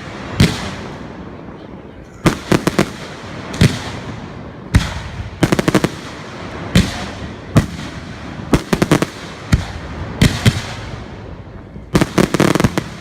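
Fireworks exploding: a run of sharp bangs, some single and some in quick crackling clusters of several, each trailing off in a rolling echo.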